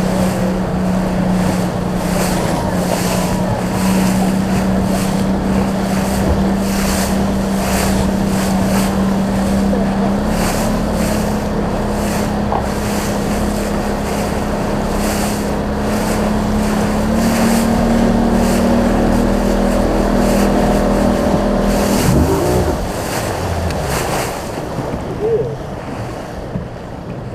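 Small boat's motor running steadily at speed under wind and rushing water, its pitch stepping up slightly twice before it throttles back near the end.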